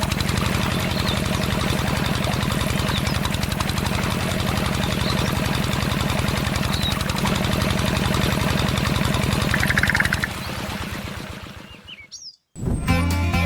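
Small engine of a DIY mini tractor running steadily with a fast, even beat, with birds chirping now and then. The engine fades out about ten seconds in, and after a brief silence music starts near the end.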